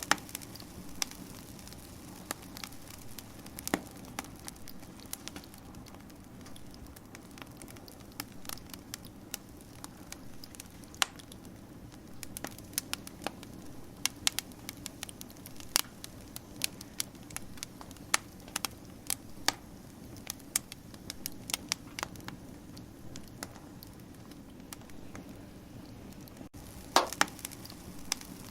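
Wood fire crackling: irregular sharp pops and snaps over a steady low hiss, with a louder cluster of pops near the end.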